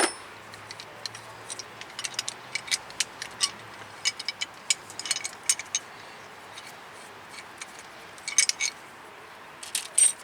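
Small metal clicks and clinks from a brake-line double-flaring tool being loosened and handled, the press released from the finished flare. A sharp click comes right at the start, then irregular clusters of light clinks.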